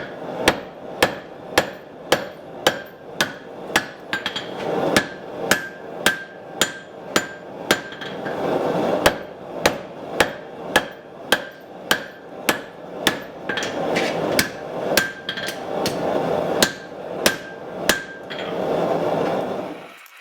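Hand hammer striking hot steel on an anvil in a steady rhythm, a little under two blows a second, each blow ringing briefly. A rushing noise swells and fades underneath the blows.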